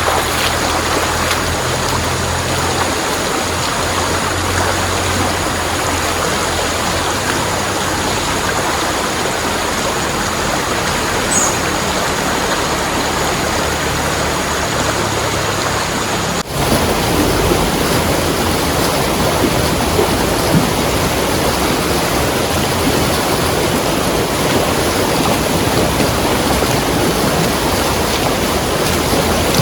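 Steady rushing of fast-flowing water from a swollen river in heavy rain. It dips briefly about sixteen seconds in, then carries on.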